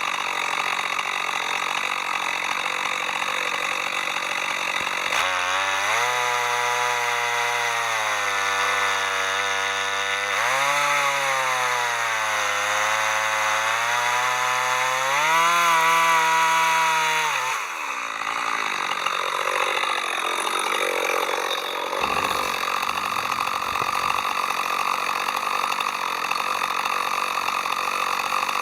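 Chainsaw running while cutting wood. From about five seconds in, its engine note dips and rises several times under load. A little after seventeen seconds it gives way to a rougher, steadier sound.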